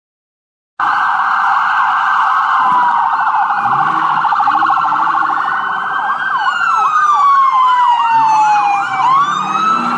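Emergency vehicle siren, loud, starting about a second in with a fast warbling yelp, then a long falling wail with a quicker rising-and-falling chirp over it and a sharp upward sweep near the end; it cuts off abruptly.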